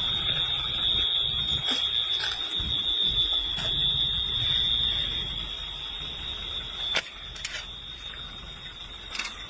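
A steady high-pitched electronic alarm tone sounding without a break, over a low rumble, with a few sharp clicks; one loud click comes about seven seconds in.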